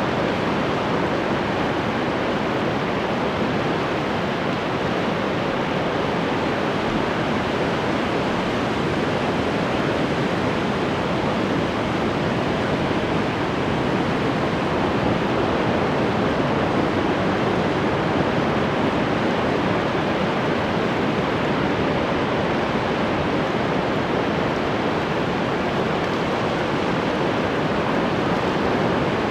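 Ocean surf: waves breaking and washing on the shore in a steady, dense rush of noise with no distinct individual wave peaks.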